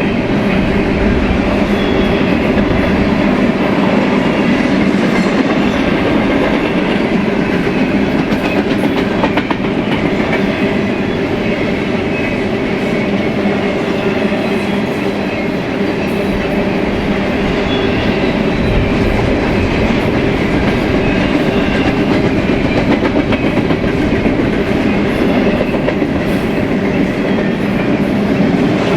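BNSF freight train's cars rolling steadily past, with the continuous rumble and clatter of steel wheels on the rails.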